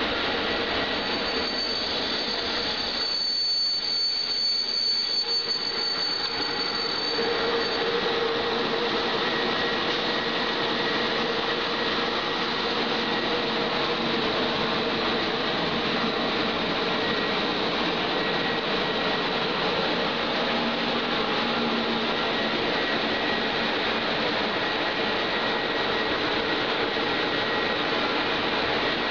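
A train rolling through a station: a steady rushing noise of wheels on rails, with a thin high whine over it that fades out about eight seconds in.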